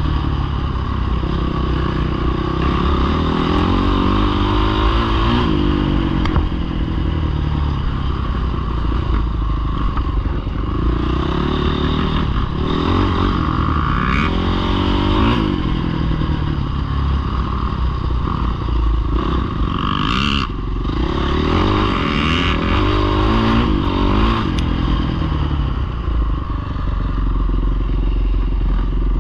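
Small dirt bike engines revving up and down repeatedly, their pitch rising and falling as the throttle opens and closes, with a few sharp clatters partway through.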